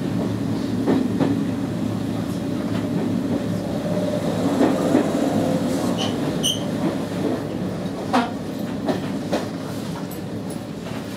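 Izu-Hakone Railway 3000 series electric train running through a station, heard from the cab: steady rail running noise with a couple of brief high wheel squeaks about six seconds in, then a few sharp clicks of wheels over rail joints and points.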